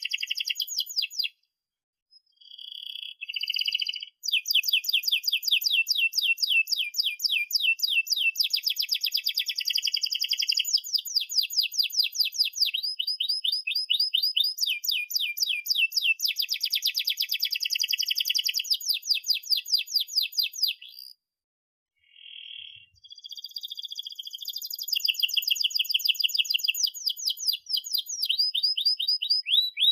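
Canary singing a long song of fast rolling trills made of rapid, repeated high chirps, broken by two short pauses, about a second and a half in and about two-thirds of the way through.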